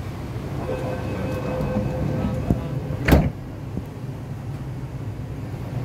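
Inside an MTR East Rail Line R-Train car at a platform: the train's equipment gives a steady low hum, with a faint held tone for about two seconds. About three seconds in there is one short, loud clunk.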